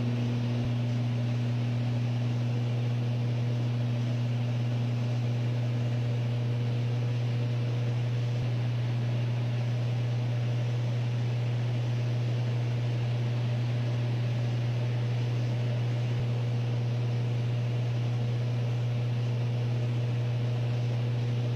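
Steady drone of an airplane in flight, heard from inside the cockpit: a low, unchanging hum with a fainter steady tone above it.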